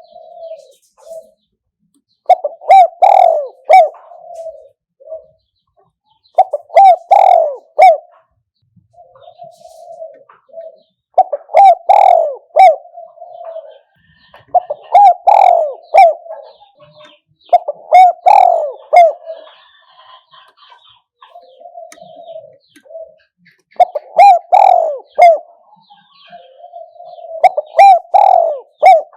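Spotted dove cooing: loud phrases of several low coos, about one every four seconds, with softer coos in between. It is a decoy bird's calling, used to lure wild doves.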